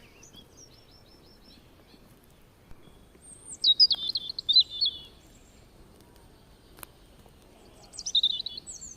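A songbird singing in forest: bursts of rapid, quavering high whistled notes, a loud phrase about three and a half seconds in and another near the end, with fainter song and quiet forest background between.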